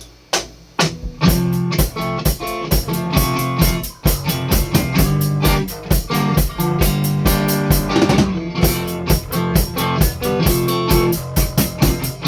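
Instrumental intro of a rock song on guitar and drum kit. A few separate drum hits come first, then the full band comes in just over a second in with a steady beat.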